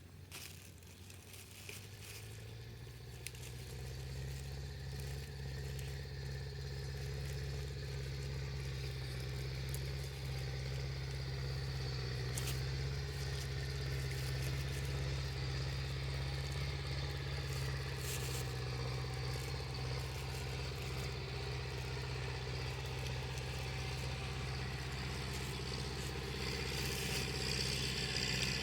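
A tractor engine running steadily. It grows louder over the first four seconds and then holds, with a hissing, scraping noise coming up near the end.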